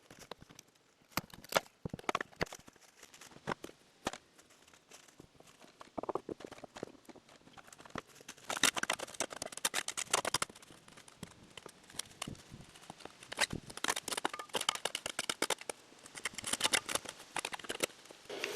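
Rotted particle board siding being pried and pulled loose after a cut: irregular cracking, snapping and crumbling, in bursts of crackle between single clicks.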